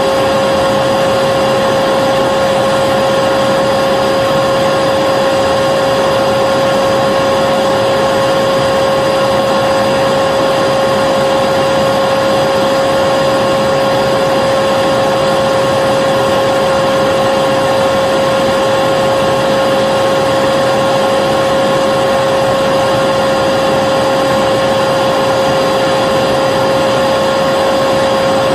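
Vacuum cleaner motor running steadily, a constant whooshing rush with a steady whine.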